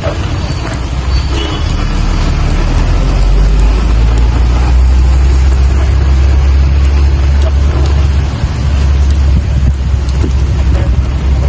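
Steady rain falling, with a deep low rumble underneath that builds over the first couple of seconds, holds, dips briefly near the end and returns.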